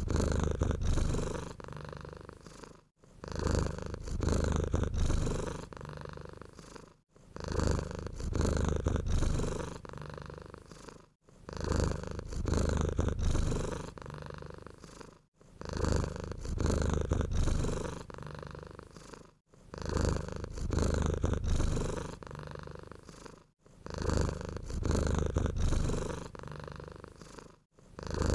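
Domestic cat purring close up: a low, steady rumble that swells louder and then eases off in breath cycles. The same pattern repeats about every four seconds, with a very brief silent gap between repeats.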